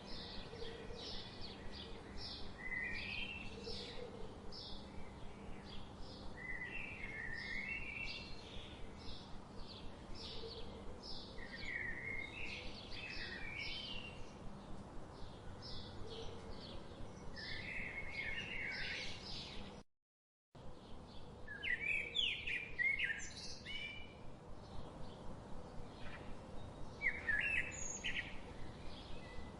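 Many small birds chirping, with quick, overlapping short notes over a faint steady background hiss. The sound cuts out completely for about half a second roughly two-thirds of the way through.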